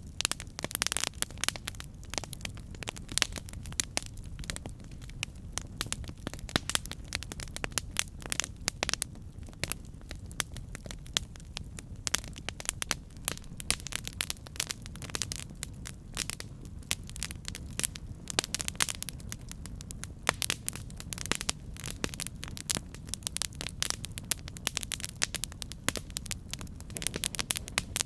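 Campfire burning: dense, irregular crackling and popping over a steady low rumble of the flames.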